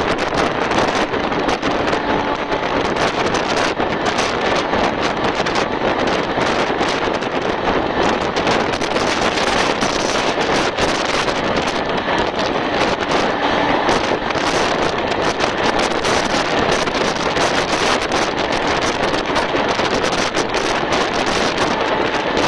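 Steady rush of wind hitting the microphone at the window of a fast-moving express train, mixed with the train's running noise.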